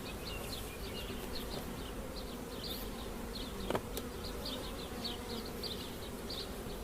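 Honey bees buzzing in a steady hum around an open hive, with short high chirps repeating throughout and a single sharp click nearly four seconds in.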